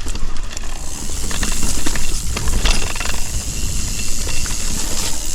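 Mountain bike riding on a dirt singletrack: a steady rush of wind on the microphone over tyre rumble, with scattered clicks and rattles from the bike on the rough trail.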